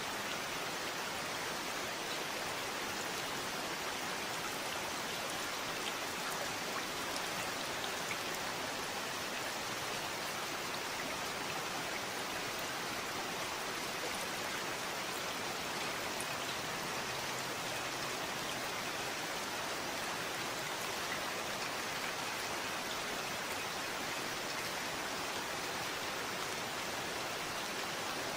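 Steady rain falling, an even hiss with faint single drop hits scattered through it.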